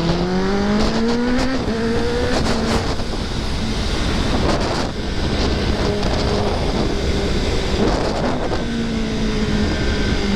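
Kawasaki ZX-10R sportbike's inline-four engine pulling hard, its pitch rising, dropping at an upshift about one and a half seconds in, rising again, then holding fairly steady revs, under a constant rush of wind noise.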